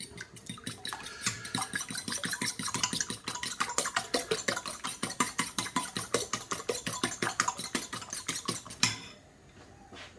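A raw egg being beaten in a bowl: rapid, even clinks of the utensil against the bowl, about five a second, stopping abruptly near the end.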